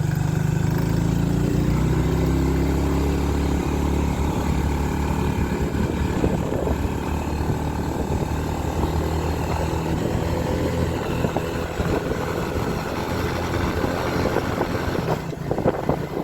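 Motorcycle engine running while riding, with wind rushing on the microphone that gets rougher near the end.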